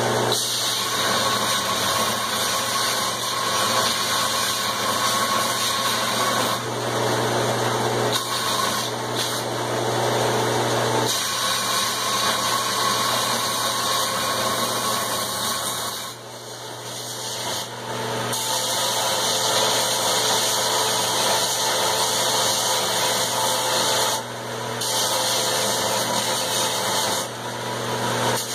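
Grinder running, rough-grinding a forged steel hammer head: a steady motor hum under a harsh grinding hiss that briefly dips a few times.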